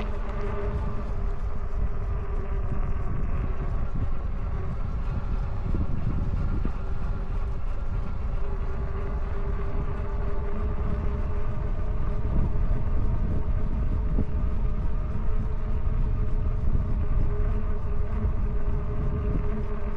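Electric bike's geared hub motor whining steadily under way, with low wind rumble on the microphone.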